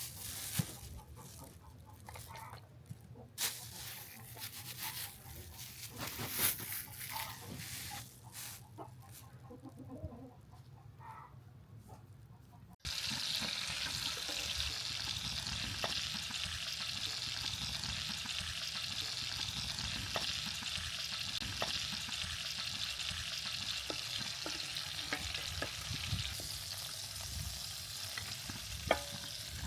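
Scattered light clicks and knocks of kitchen utensils, then, after an abrupt change about 13 seconds in, a steady sizzle of food frying in a hot pan with occasional stirring clicks.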